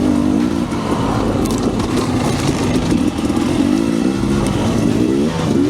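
Husqvarna enduro dirt bike engine running under changing throttle on a trail, its revs wavering up and down, then climbing near the end.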